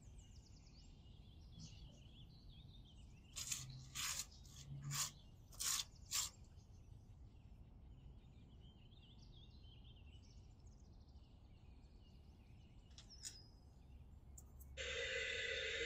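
Several short, crackly rustles as potting soil and tangled roots are pulled apart by hand, with faint birdsong chirping behind. About a second before the end a steady rush of water starts suddenly, splashing over freshly potted plants.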